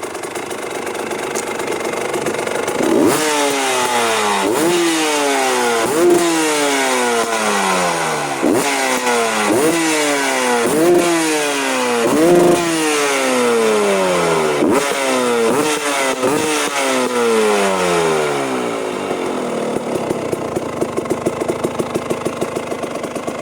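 Motorcycle engine breathing through an aftermarket full-system racing exhaust, blipped about a dozen times in quick succession, each rev rising sharply and falling back. It idles before and after the revving.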